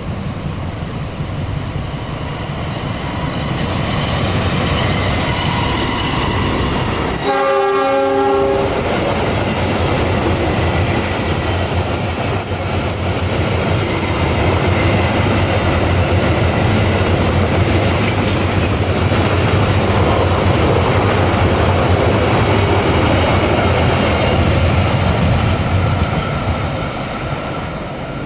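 A diesel locomotive hauling a passenger train sounds its horn once, a chord of several notes lasting about a second and a half, about seven seconds in. The engine and the carriages' wheels clatter steadily past, fading near the end as the last coach moves away.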